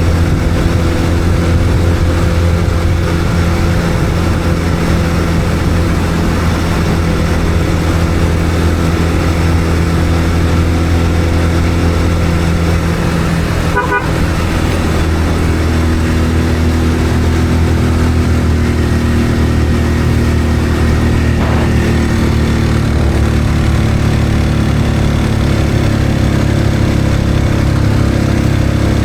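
Vehicle engine running steadily on the road, its pitch shifting slightly partway through as the speed changes, with a brief horn toot near the middle.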